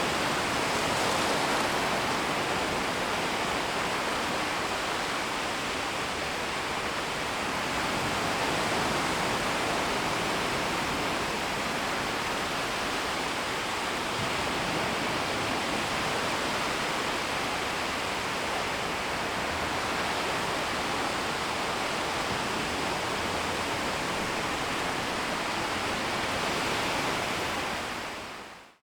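Gentle, shallow sea waves washing onto a shoreline, heard as a steady rushing wash. It fades out to silence near the end.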